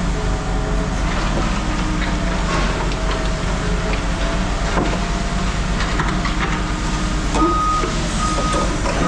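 A heavy machine's engine running steadily under load, with a few knocks. About seven seconds in, its backup alarm starts beeping, a high steady beep repeating a little more than once a second.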